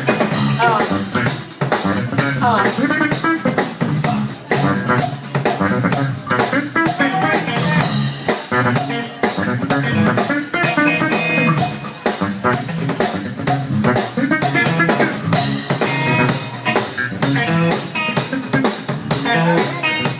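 Live funk band playing an instrumental passage: drum kit keeping a steady beat under electric guitar and bass.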